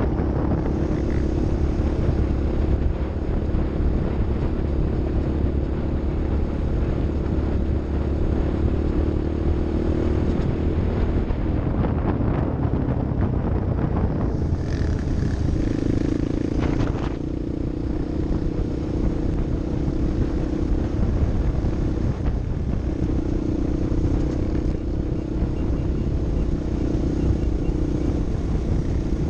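Off-road vehicle engine running steadily under way, with a constant hum and low rumble, mixed with road and wind noise.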